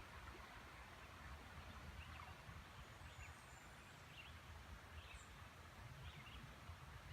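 Near silence: faint woodland ambience, a steady low rumble with a few faint, short high chirps scattered through it.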